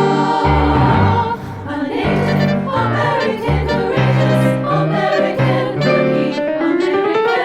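A treble choir singing with B-flat clarinet and piano accompaniment. Sustained notes move over a stepping bass line, and a rising run comes near the end.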